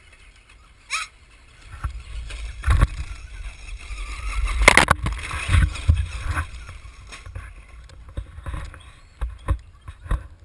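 Electric RC trucks driving over rough ground: a rumble of wheels and chassis with sharp knocks as they bump, loudest between about two and seven seconds in, then lighter clicks and taps.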